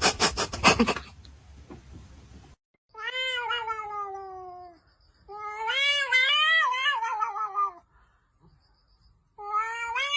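A cat giving three long, drawn-out meows, each lasting a couple of seconds and wavering then sliding down in pitch, after a fast rhythmic scratchy noise that dies away in the first two seconds.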